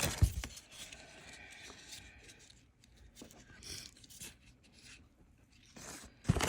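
Dog toys and packaging from a subscription box being handled: light rubbing and scraping, with a couple of soft knocks at the start and a louder rustle near the end.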